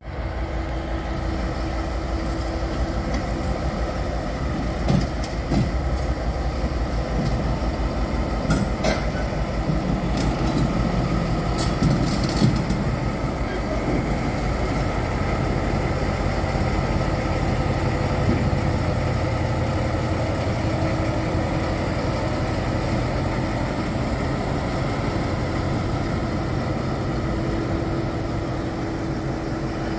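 A train running with a steady low engine rumble and hum. Several short, sharp high-pitched squeals and clicks come between about five and thirteen seconds in.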